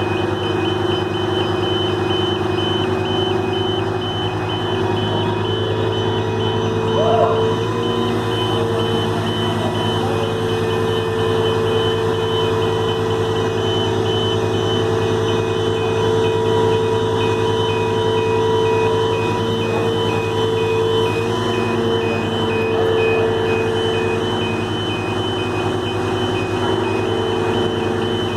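Heavy truck's diesel engine running steadily, with an electronic alarm beeping in a fast, even pulse throughout.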